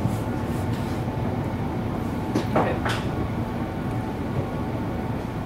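Inside a Siemens electric multiple-unit train running between stations: a steady low hum of wheels and motors, with a brief rattle about two and a half seconds in.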